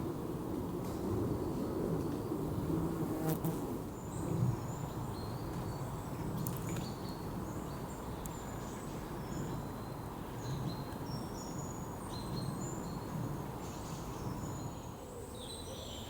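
Woodland ambience: a low, wavering insect buzz, with many short, high bird chirps that come thicker from about six seconds in.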